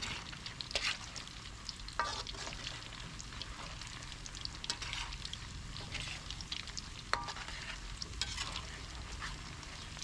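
Food sizzling and crackling in hot oil in a pan while a utensil stirs it. A sharper clink of the utensil against the pan comes about two seconds in and again about seven seconds in.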